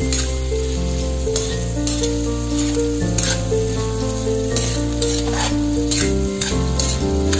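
Shrimp sizzling in butter in a metal wok as a metal spatula stirs and scrapes them around the pan, with irregular scraping strokes. Background music with a melody and bass plays throughout.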